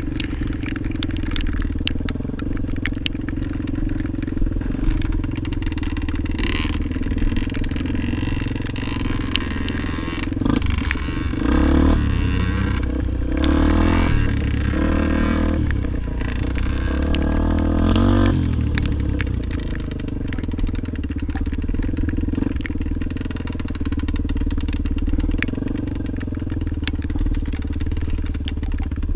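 Motorcycle engine running while riding, working harder with the pitch rising and falling for several seconds in the middle, then settling back to a steady drone. Short knocks and rattles run through it.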